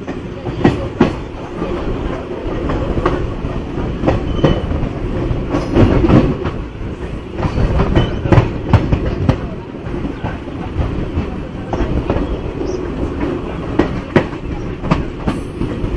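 A passenger train running along the line, heard from an open coach doorway: a steady rumble with wheels clicking sharply and irregularly over the rail joints.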